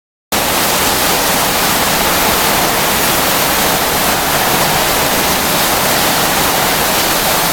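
Heavy rain from a summer thunderstorm pouring down in a loud, steady hiss.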